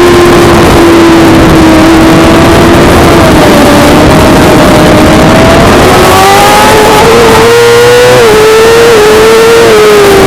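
Suzuki GSX-R600 inline-four engine running hard at high revs on track. Its pitch sags slightly, rises about two-thirds of the way through with two brief sudden dips, then falls near the end.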